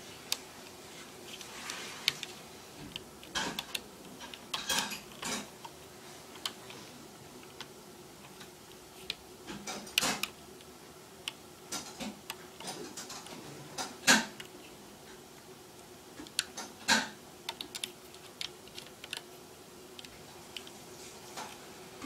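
Irregular light clicks and taps of a hook and rubber bands against a plastic rainbow loom as bands are placed and looped over the pegs.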